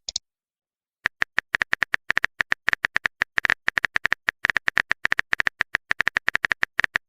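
Rapid keyboard-typing click sound effect, like taps on a phone's on-screen keyboard, about seven or eight crisp clicks a second. It starts after about a second of silence.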